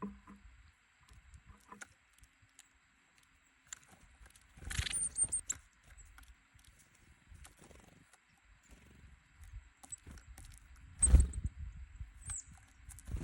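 Small garden birds (tits and nuthatches) feeding on a wooden feeder board: light pecking and scrabbling. There are two louder flurries of wingbeats and landing knocks, about five seconds in and again about eleven seconds in, and a few thin high notes.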